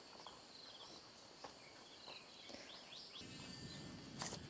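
Faint outdoor ambience with a few short insect and bird chirps. A low, even noise rises about three seconds in.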